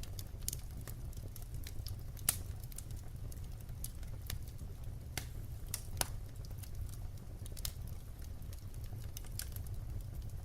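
Firewood burning: irregular sharp crackles and pops over a steady low rumble, with the two loudest pops about two and six seconds in.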